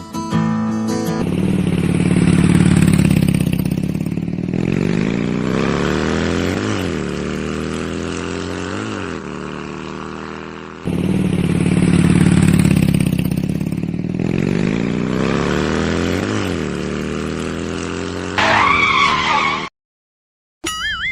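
Tractor engine running, its pitch rising and falling a few times; the same stretch of engine sound plays twice in a row, like a looped sound effect. Near the end a wavering high tone joins in, then the engine cuts off suddenly.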